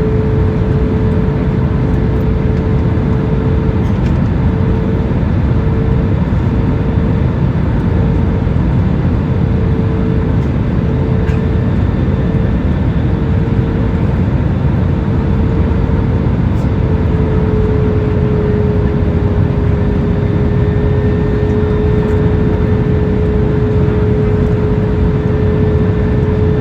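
Airliner cabin noise in flight: a steady loud roar with a constant hum over it.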